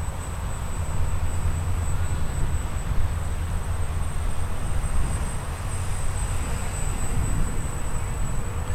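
Wind buffeting the microphone with a steady low rumble, over the whir of a small X250 quadcopter's electric motors in flight, and a thin steady high whine.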